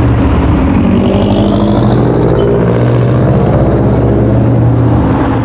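Sports car engine and exhaust running loud with a deep, steady note, and a faint whine rising in pitch about a second or two in.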